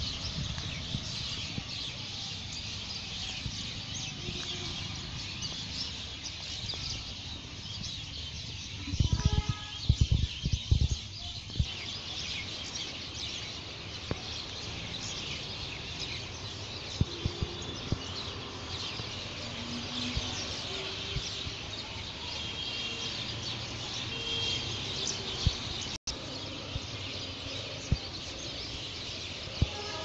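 Birds chirping over a steady high-pitched hiss, with scattered short calls. About nine seconds in, a cluster of loud thumps comes together with a brief pitched call.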